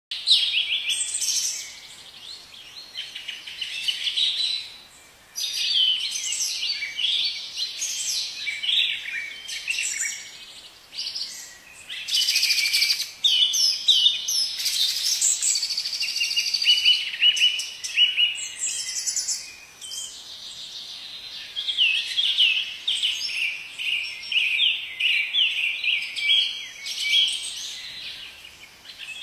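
Songbirds chirping and singing, many short high trills and chirps overlapping, with a brief lull about five seconds in.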